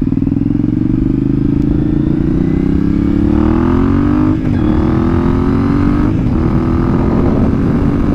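Triumph Speedmaster's parallel-twin engine pulling under acceleration, its pitch rising, with two short dips at gear changes about four and a half and six seconds in, then running more steadily.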